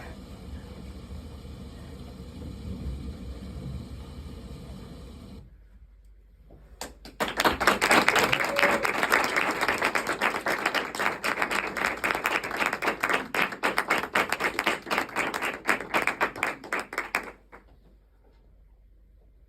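A low steady rumble for the first few seconds. Then, after a brief lull, an audience applauds for about ten seconds, and the clapping cuts off suddenly.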